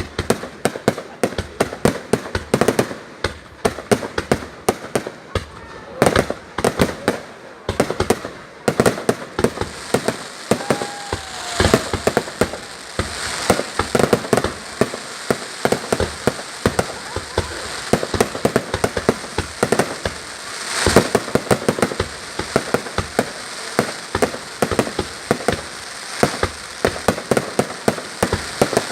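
Fireworks display going off: a dense, continuous run of bangs and crackles, several a second, with bigger bursts about twelve and twenty-one seconds in.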